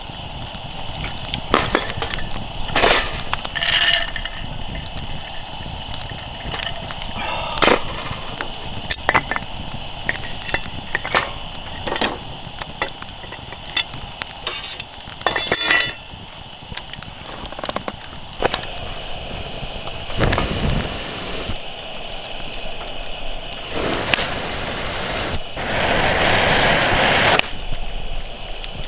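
Campfire cooking: scattered clicks and clinks over a steady high insect trill, which stops about two-thirds of the way through, and a few seconds of hissing near the end.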